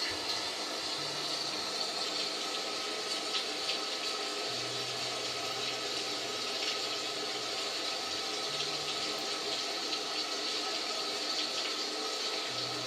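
Steady rain falling, a dense even hiss with scattered patters of individual drops.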